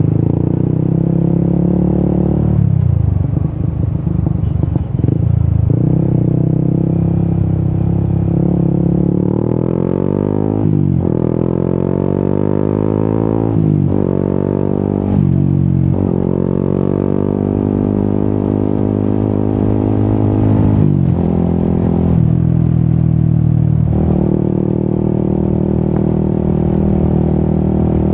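Yamaha XSR 155's single-cylinder engine through an Akrapovic exhaust, riding: the revs climb and drop back sharply several times in a row as it shifts up through the gears, then settle into a steady cruise near the end.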